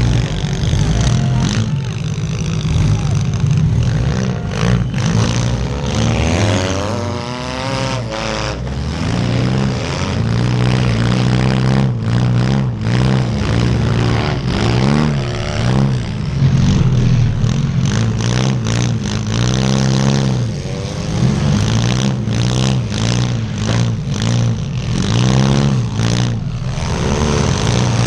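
Demolition derby car's engine revving up and down again and again under hard throttle, with sharp knocks and clatter from hits and loose, battered body panels scattered through, most of them in the second half.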